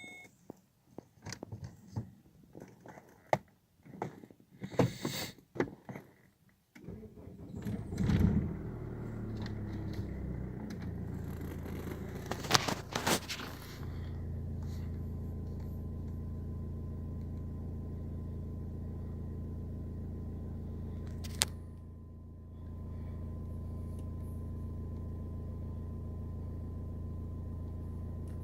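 Y22DTR 2.2-litre four-cylinder turbodiesel starting after a few seconds of clicks and knocks, catching with a loud burst and then idling steadily.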